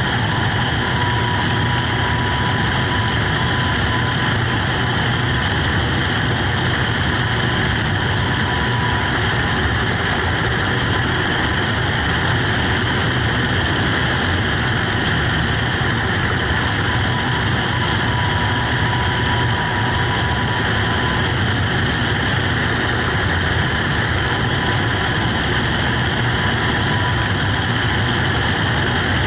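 Steady, unbroken rushing noise with faint steady whining tones, as picked up in flight aboard an FPV radio-control glider.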